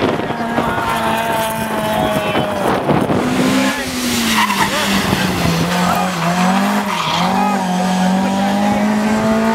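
Race car engine running hard at fairly steady revs, its pitch dipping and rising again in the middle, with tyres squealing and skidding.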